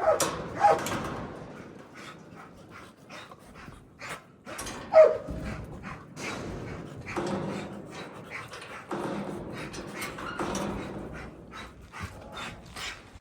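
Dogs making short, sharp barks and whining, the loudest calls near the start and about five seconds in.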